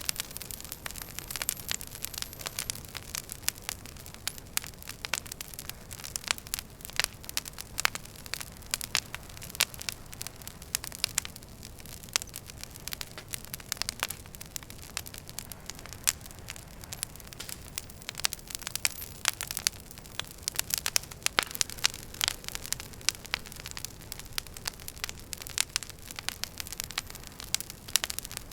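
Wood fire burning in a fireplace: irregular sharp crackles and pops of burning logs over a steady low hiss.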